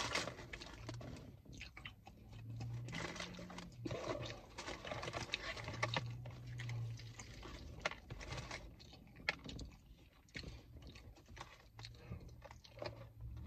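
A man chewing a mouthful of fried chicken: wet smacking mouth sounds with many irregular crunchy clicks.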